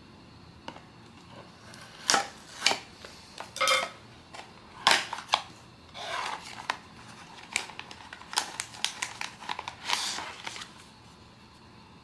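Blind-box packaging and contents being handled by hand: a string of sharp clicks and taps with short rustles. It starts about two seconds in and stops near the end.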